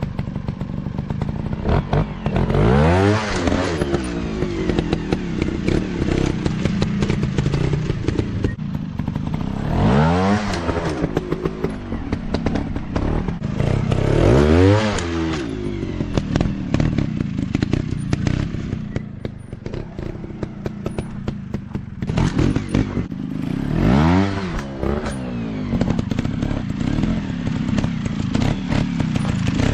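Motocross dirt bike engines running, revving up and dropping back four times with lower running between, over a constant mechanical rattle.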